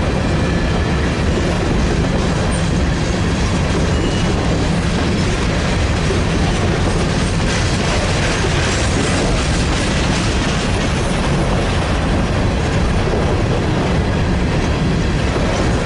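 Freight train of grain cars rolling steadily past, its wheels running over the rails with a constant rumble.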